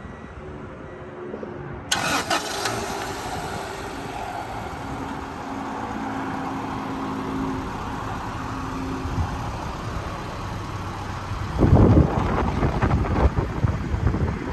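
Acura Integra GSR's 1.8-litre DOHC VTEC four-cylinder cold-started: it fires about two seconds in and settles into a steady, fast cold idle. Near the end, loud wind rumble on the microphone comes in over the idle.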